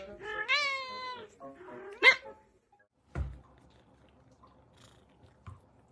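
A pet cat or dog calling: one long call, then a short sharp cry about two seconds in. About a second later comes a low thump, and then near quiet.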